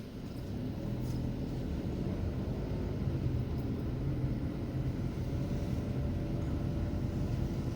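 Wind rumbling and buffeting on the microphone, a steady low rumble that builds over the first couple of seconds.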